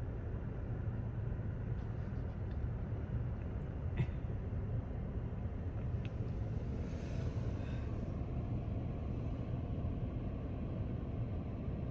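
Steady low rumble of a car engine running, with a single sharp click about four seconds in.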